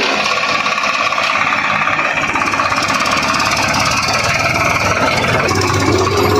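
Swaraj 744 XT tractor's diesel engine running steadily, with an even, continuous chug.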